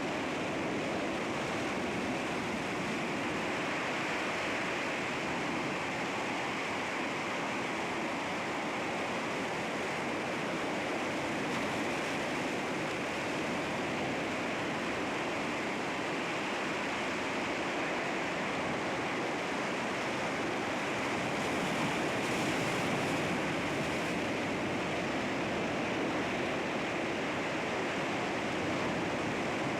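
Sea waves breaking against rocks: a steady wash of surf, swelling a little about two-thirds of the way through.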